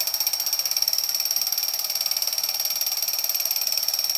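Vintage battery-operated bump-and-go toy helicopter running: its small electric motor and gear train give a steady, high-pitched mechanical whir with a fast, even rattle, switched on just before and not changing.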